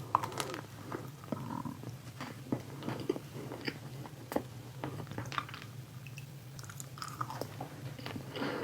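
Close-up chewing and biting of cold mini chocolate frosted donuts, their chilled chocolate coating crunching in irregular crackles between softer mouth sounds.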